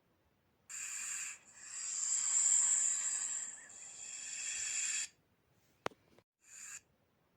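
Snake hissing: a short hiss, then a long hiss of about three and a half seconds that swells and fades, a sharp click, and another short hiss near the end.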